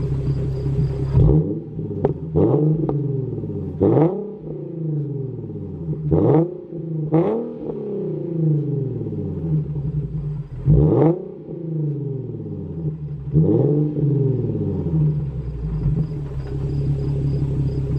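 Infiniti Q50 exhaust with an axle-back muffler delete: the engine idles, then is revved in about seven quick blips, each pitch rising sharply and falling back. It settles back to idle near the end.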